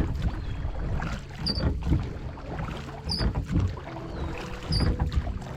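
Rowboat being rowed, the oars dipping and pulling through the water in regular strokes about every second and a half, each stroke with a short high squeak.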